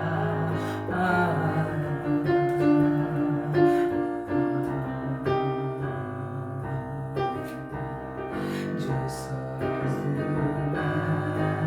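Instrumental worship music: a keyboard playing slow, sustained piano chords.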